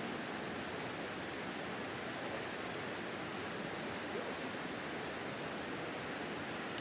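A wood campfire burning, with a few faint crackles over a steady rushing hiss.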